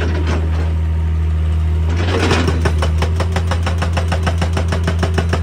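Hitachi EX200 excavator's diesel engine running steadily, with a fast, even clatter setting in about halfway through.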